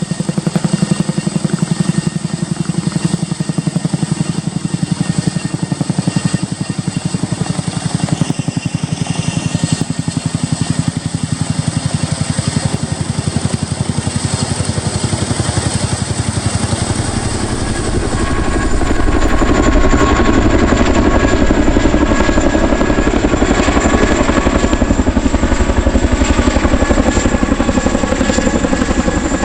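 Military helicopter flying, a steady, dense beat of rotor blades over turbine noise. About eighteen seconds in it grows louder and deeper.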